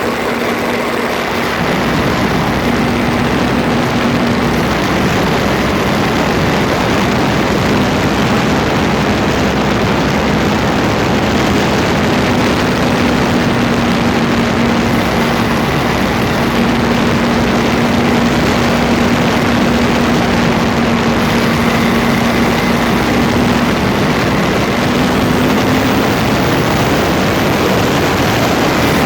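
Land Rover Freelander 2 drivetrain noise picked up right beside the front differential: a steady rushing noise with a humming tone running through it that shifts slightly in pitch, the grinding noise the owner is tracking down at the front differential.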